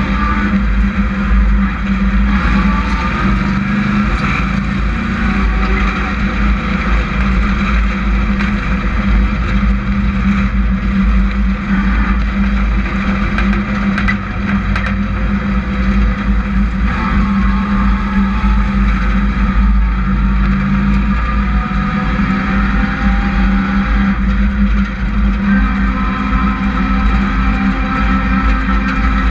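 Hobby stock trucks racing on a short oval, their engines running at speed with pitch rising and falling as they lap, loud and continuous.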